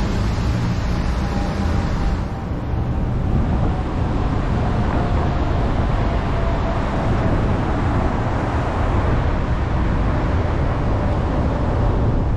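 Car driving, a steady road and engine rumble with a thin tone that falls slowly in pitch.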